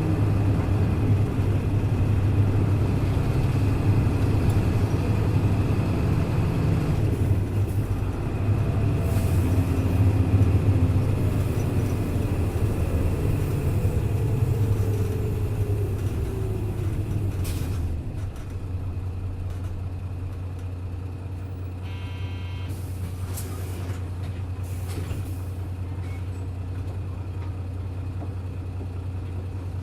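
Hino Blue Ribbon city bus engine running under way, with a whine that falls in pitch as the bus slows. About 18 seconds in, the sound drops to a quieter, steady idle, and a few short air hisses follow.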